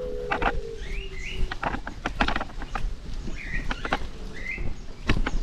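A bird chirping several times, short rising calls a second or so apart. Under it run the clicks and rattles of a bicycle riding over a rough, patched lane and a low wind rumble.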